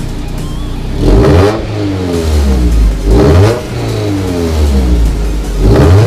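Naturally aspirated four-cylinder engine of a 1990 Toyota MR2 SW20, through a decatted stainless Mongoose exhaust, idling and then blipped three times, about a second in, midway and near the end, the revs falling back after each blip.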